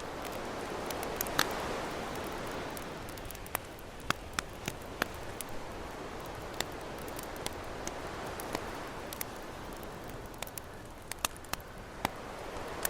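Campfire crackling, sharp pops scattered irregularly, over the wash of ocean waves that swells and eases.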